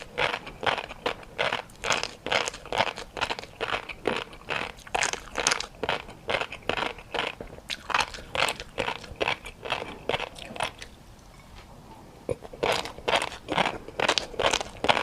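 Someone chewing crunchy food close to the microphone: crisp crunches, about two to three a second, with a pause of about two seconds past the middle before the chewing starts again.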